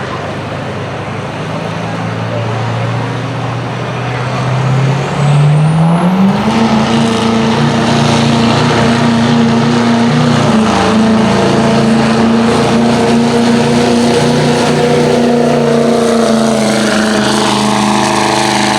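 Modified diesel pulling truck engine under load. It runs steadily, then climbs in pitch about five seconds in and holds at high revs, louder, with a rising turbocharger whine as the turbo spools.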